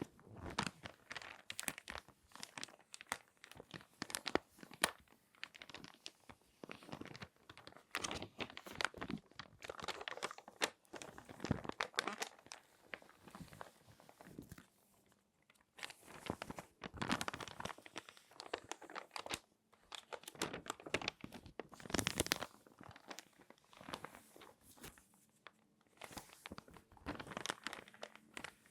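Magazine pages being folded and creased by hand, crinkling and crackling in irregular bursts, with a couple of brief pauses.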